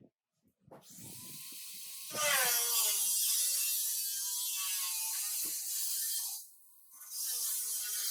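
A power tool running with a whine and a hiss. It starts about a second in, gets louder and wavers slightly in pitch, stops briefly near the end, then starts again.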